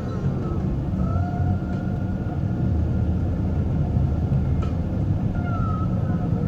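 Steady low rumble with a few faint wavering tones above it.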